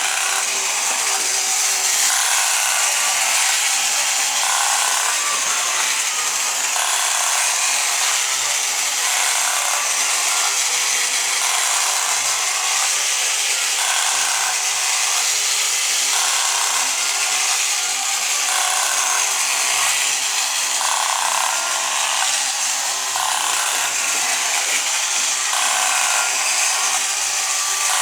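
Battery-operated 1960s Masudaya tin pirate ship toy running: a steady rasping buzz from its motor and the shaking sail mechanism, swelling slightly every second or two.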